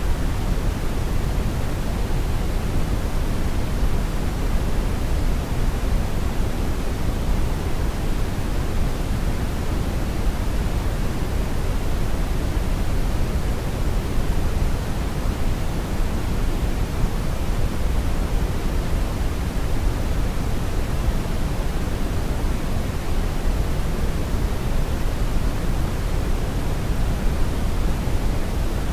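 Brown noise: a steady, deep rushing hiss, strongest in the low end, with no changes.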